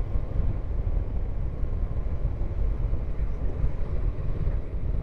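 Riding noise from a Honda CB500X motorcycle on the move: a steady low wind rumble on the microphone.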